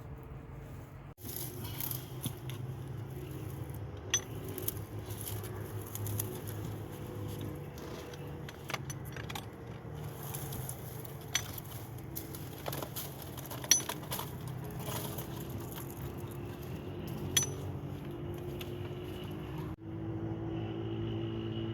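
Scattered sharp clinks and knocks, one every few seconds, over a steady low hum.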